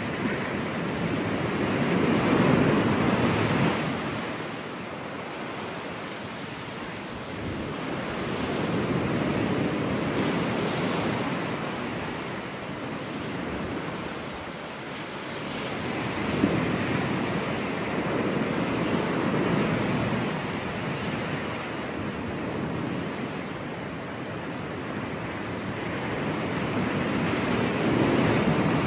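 Ocean surf breaking on a beach: a steady wash of waves that swells and fades in slow surges every several seconds, with some wind on the microphone.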